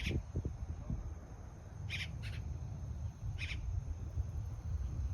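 Short bird calls, a single call every second or so, some in quick pairs, over a steady low rumble.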